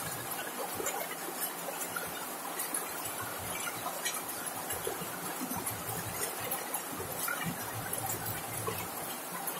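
Steady rain pattering on a corrugated zinc roof, many small drop ticks over an even wash of rainfall.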